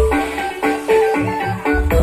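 Music played through a loudspeaker cabinet of four 12-inch ACR Pro woofers: a plucked, bell-like melody with the heavy bass dropped out, a few low bass hits in the middle, and the deep bass coming back in near the end.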